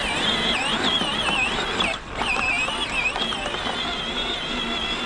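Electric motor and gearbox of a children's Power Wheels ride-on four-wheeler whining under load on a silage pile, the pitch wavering up and down, with a brief break about two seconds in.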